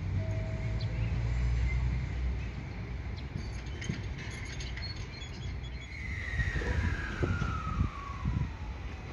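A train at a station: a low rumble in the first couple of seconds, then a whine falling steadily in pitch as the train slows, with low knocks from the wheels over rail joints.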